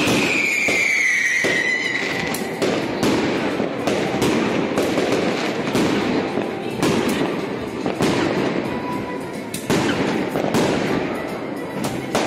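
Fireworks going off in quick succession: many sharp bangs and crackles from bursting shells and rockets, with a whistle falling in pitch in the first two seconds.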